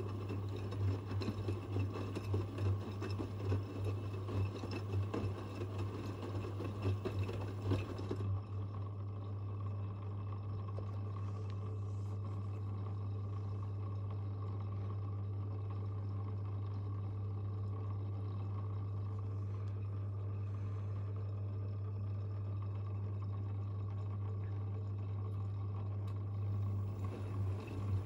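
Washing machines mid-cycle: water rushes through for about the first eight seconds over a steady low hum. The water sound then stops suddenly, and only the hum carries on.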